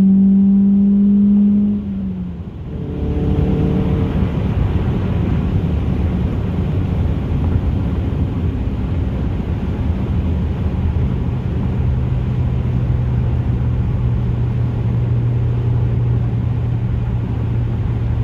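Ford Focus 2.0 Zetec inline-four with an aftermarket race header, downpipe and 2.5 inch exhaust, holding a strong steady note that drops off about two seconds in as the throttle closes. It then runs on steadily under a rushing road noise, settling into a lower steady drone from about the middle on.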